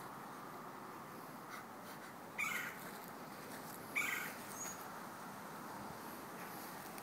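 Steady hum of honeybees around an open hive, with two short squeaks about two and a half and four seconds in.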